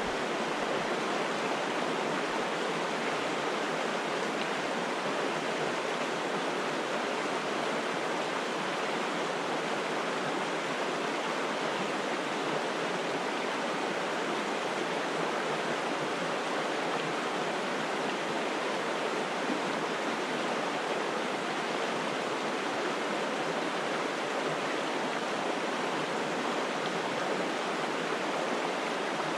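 A forest brook rushing steadily: a constant, even hiss of flowing water with no breaks.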